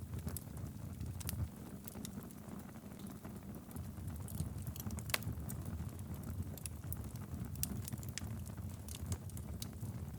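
Wood fire burning steadily in a fireplace: a low continuous rumble of flames with irregular sharp crackles and pops, the loudest about five seconds in.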